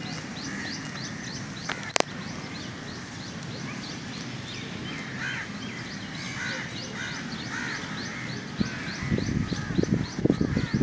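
Birds calling: a steady run of short high chirps, about three a second, with some lower calls around the middle. A sharp click about two seconds in, and low uneven thumps from about nine seconds in.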